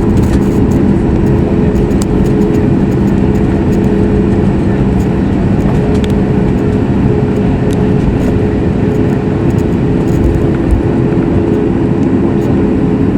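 Steady cabin noise of a Boeing 737 MAX 8 in operation, heard from a window seat by the wing: a loud, even rush with a constant hum from its CFM LEAP-1B engines.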